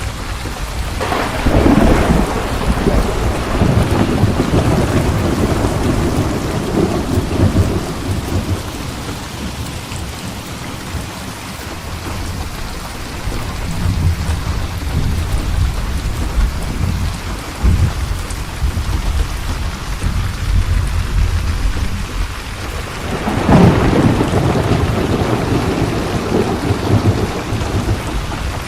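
Steady rain with rolling thunder: one rumble breaks about a second in and rolls on for several seconds, another breaks near the end, and low rumbling continues in between.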